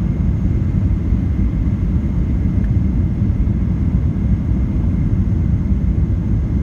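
Steady low rumble of jet airliner cabin noise inside a Jeju Air Boeing 737 in flight, with a faint steady high tone above it.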